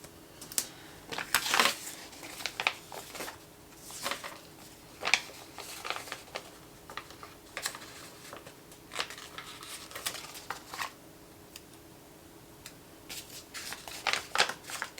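Paper and sticker sheets being handled close up: irregular light rustles, crinkles and small clicks as stickers are peeled and pressed into a paper planner.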